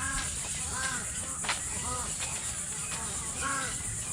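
A mixed waterbird nesting colony calling, with short arched calls repeating over and over, over a steady high-pitched hiss, and a sharp click about one and a half seconds in.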